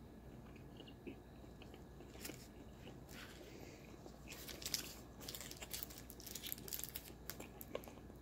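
Faint mouth sounds of a man chewing a turkey Slim Jim meat stick: soft, irregular wet clicks that get busier about halfway through.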